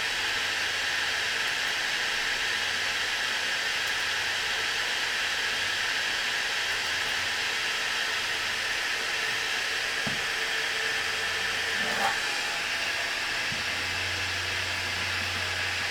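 JISULIFE Table Fan Pro3 battery-powered table fan running with a steady rush of air over a low motor hum. There are a couple of faint clicks near the end.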